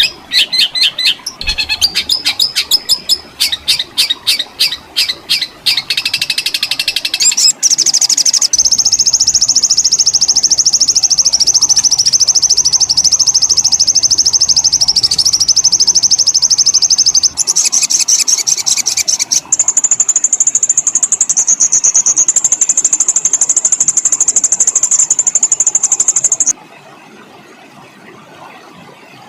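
Songbird song from a masteran training recording: a run of sharp, repeated high notes, then long, very rapid high-pitched rolling trills, which stop abruptly near the end.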